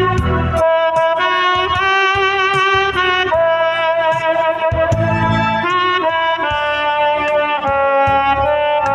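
Tenor saxophone playing the slow melody of a Korean ballad over a backing track, long held notes with vibrato, changing pitch every second or so.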